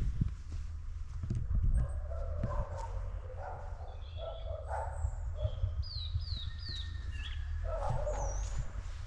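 A dog barking in short bursts a few times at a distance, with three quick high bird chirps in a row about six seconds in. A steady low rumble and clicks from walking and wind on the microphone run underneath.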